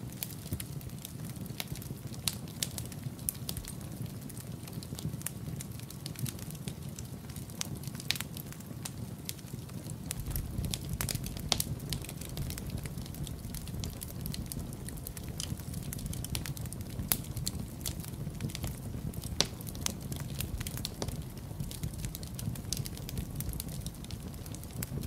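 Wood fire crackling in a fireplace, with frequent irregular sharp pops over a low steady rumble that grows louder about ten seconds in.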